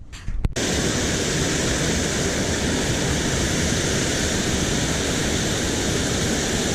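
Water rushing steadily over a small spillway, a constant even rush that cuts in about half a second in.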